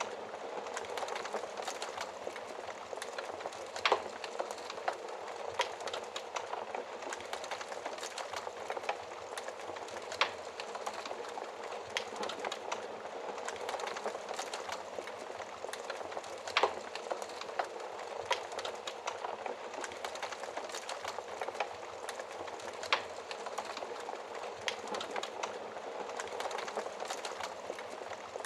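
Wood fire crackling steadily, with sharp pops every few seconds.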